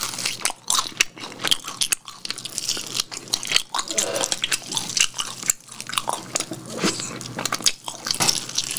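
Close-miked biting and chewing of bone-in fried chicken in a sticky spicy glaze: an irregular run of crisp crunches and wet mouth sounds.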